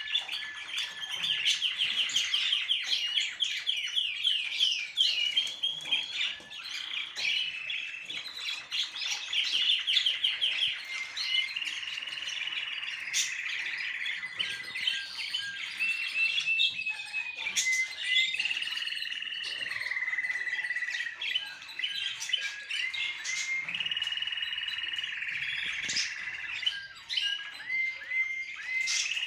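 Birds singing without a break: fast rattling trills for roughly the first ten seconds, then long held whistled notes mixed with short chirps.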